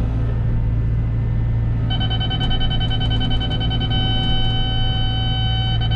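Cat 313 excavator's diesel engine running steadily. About two seconds in, the grade-control beeper starts a steady, unbroken tone as the bucket is checked against grade.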